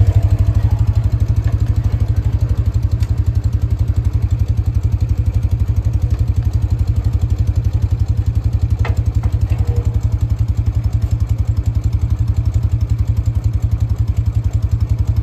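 BMW R50/2's air-cooled flat-twin boxer engine idling with a steady, even beat. Two light clicks come about nine seconds in.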